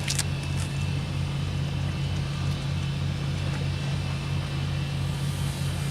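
An engine idling steadily, giving an even low hum, with a couple of faint clicks near the start.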